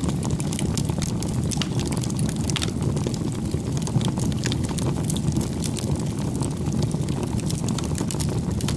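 Campfire crackling: a steady low rumble of burning with many small irregular pops and snaps.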